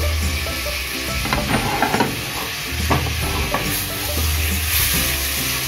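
Tomatoes, onion, garlic and ginger sizzling as they are sautéed in oil in a stainless steel pot, stirred with a utensil that scrapes the pot, with a few knocks against the metal.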